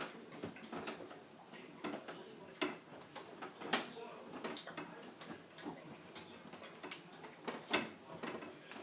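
Irregular light clicks and knocks of things being handled inside an open refrigerator during cleaning, with a few sharper knocks scattered through.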